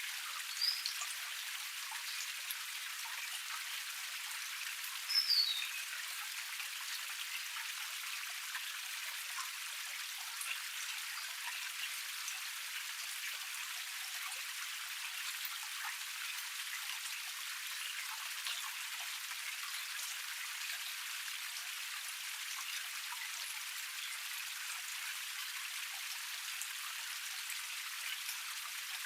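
Small forest waterfall cascade splashing steadily, a dense patter of drops with no low rumble. A bird gives a short high chirp near the start and a brief falling call about five seconds in.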